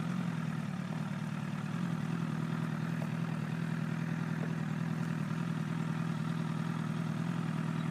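Honda CBR1000RR's inline-four engine running steadily at low revs, its pitch holding level.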